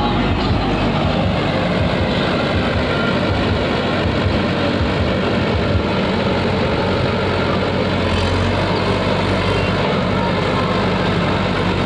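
Tractor engine running steadily, a constant low hum with a broad noise over it.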